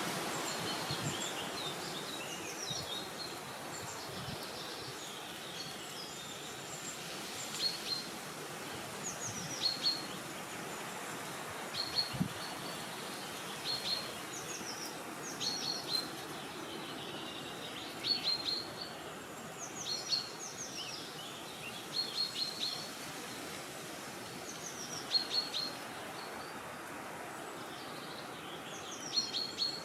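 Small birds calling with short, high, falling chirps, often in quick groups of two or three, every couple of seconds from about a quarter of the way in, over a steady rush of wind.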